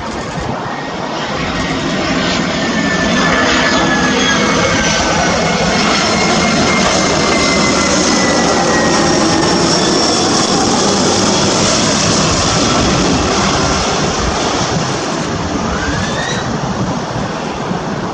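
Airbus A321-211 jet airliner with CFM56-5B turbofans passing close by. Its jet noise builds over the first few seconds, stays loud for about ten seconds with the engine whine slowly falling in pitch, then eases off.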